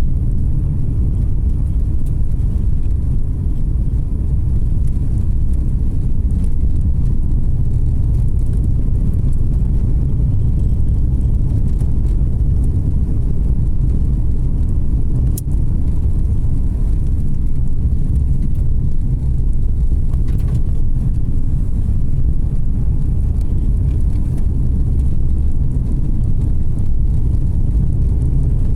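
Car driving along a road: a steady low rumble of tyre and engine noise heard from inside the car, with a brief faint click about halfway through.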